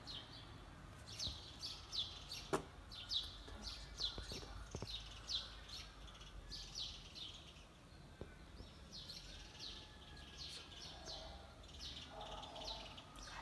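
Small birds chirping faintly, short falling chirps coming in quick runs, with one sharp click about two and a half seconds in.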